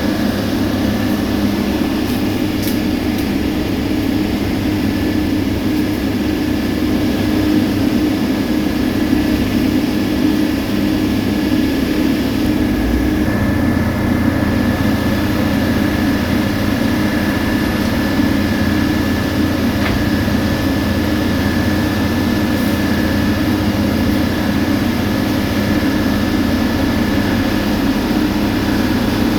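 Heavy diesel road-paving machinery running steadily and loud: a constant engine drone with a thin steady whine above it. The engine note shifts slightly about thirteen seconds in.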